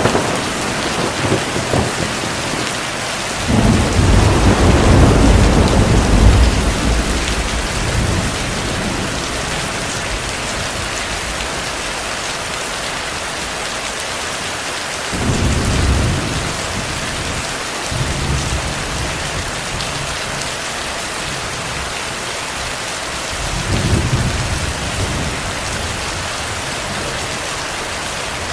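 Heavy rain hissing steadily, with distant thunder rumbling three times: a long, loud roll a few seconds in, then two shorter rolls later on.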